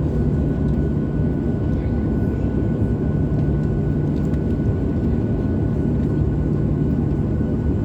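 Steady cabin noise of a Boeing 737-800 in flight: an even low rumble of engines and airflow, with a faint steady high tone above it.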